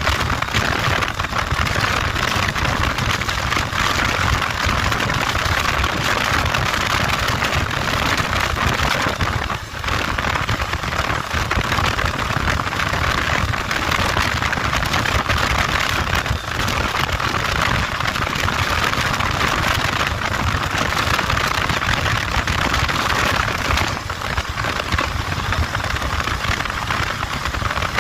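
Motorcycle on the move: the engine running under a steady rushing noise, with one brief dip about ten seconds in.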